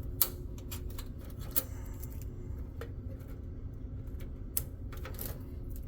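Sharp snips and clicks as side cutters cut zip ties and the freed cables are handled, the loudest snip about a quarter second in, over a steady low hum.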